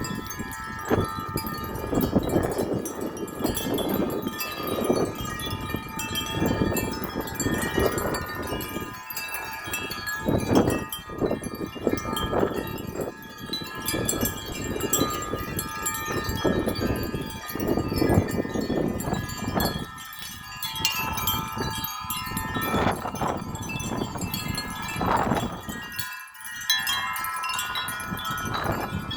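Several tubular wind chimes ringing continuously in gusty wind, many overlapping tones struck again and again. Wind buffets the microphone in uneven gusts, easing briefly a few times near the end.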